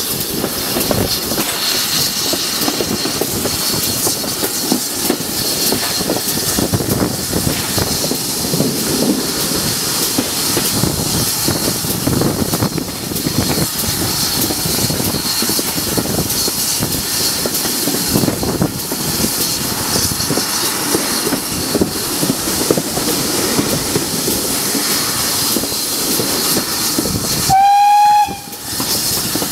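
A heritage train running along the line, heard from an open carriage window: a steady rumble of wheels on rails with irregular clatter. Near the end the locomotive sounds one short blast, under a second long, that rises quickly in pitch and then holds a steady high note.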